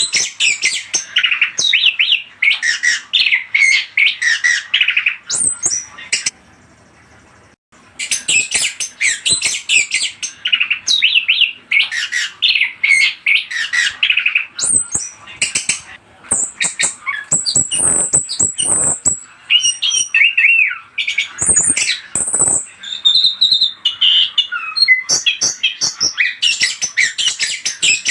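Chestnut-capped thrush (anis kembang) singing a fast, varied run of chirps, trills and whistles, used as a lure song to set other birds singing. The song breaks off for about a second and a half around six seconds in, then resumes.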